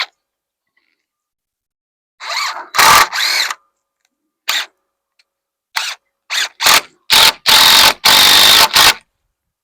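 Power drill driving screws into wood framing, in a series of trigger pulls: a run of about a second and a half with the motor pitch rising, several short blips, then longer runs near the end.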